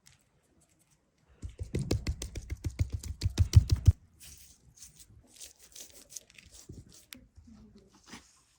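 Rapid crackling and tearing from something being torn or crushed by hand, starting about a second and a half in and lasting about two and a half seconds, followed by quieter scattered rustling and crackles.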